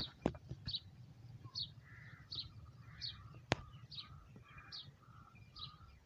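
A bird chirping over and over, one short high call about every second, with a single sharp click about three and a half seconds in.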